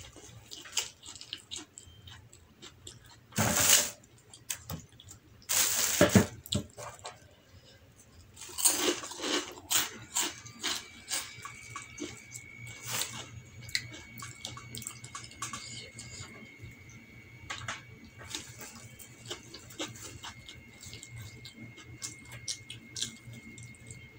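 Close-miked eating sounds from a person chewing rice eaten by hand: wet chewing and mouth smacking with many small clicks, and a few louder crackling bursts a few seconds in.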